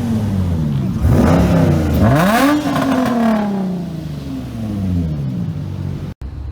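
A vehicle engine revving: it is blipped twice in quick succession, the pitch climbing sharply each time and then falling slowly as the revs die back. The sound drops out for an instant near the end.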